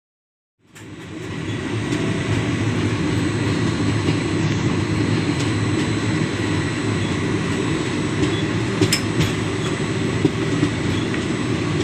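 A moving passenger train running steadily, with a few sharp clicks from the wheels and carriage about nine and ten seconds in. The sound starts under a second in, after a brief silence.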